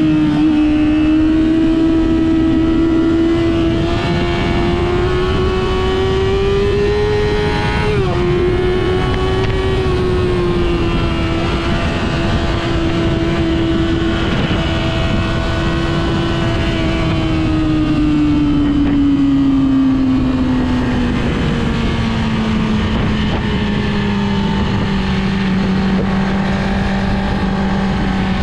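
Car engine running hard on a track lap, with road and wind noise under it. The engine note climbs slowly, dips sharply about eight seconds in and picks up again, holds steady, then falls away over several seconds as the car slows and stays low near the end.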